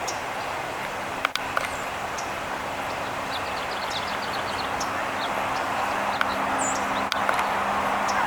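Outdoor background noise with a steady low hum, over which small songbirds give scattered high chirps and a short rapid trill a little over a third of the way in. A couple of sharp knocks stand out, one early and one near the end.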